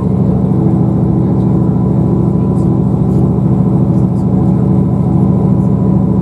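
Diesel train engine droning steadily at a constant pitch, heard from inside the carriage.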